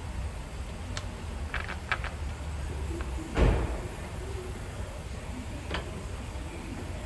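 Work noises in a repair shop: a few light clicks, then one heavy dull thud about halfway through, over a steady low hum.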